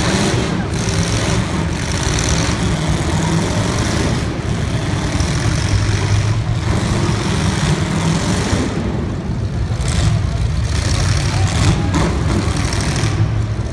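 Drag race car engines idling with a steady, deep rumble.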